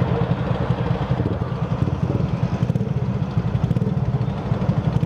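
Tuned 50cc Shineray Phoenix engine running steadily on the move, with a rapid, even, low exhaust pulse.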